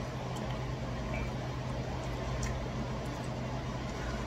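A person chewing a mouthful of food, faint wet mouth clicks over a steady low hum and hiss.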